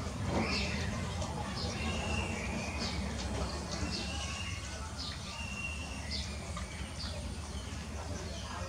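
Small birds chirping, short calls about once a second, over a steady low hum.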